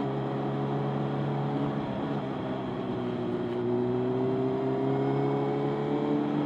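Motorcycle engine running steadily while riding, its pitch rising slowly through the middle.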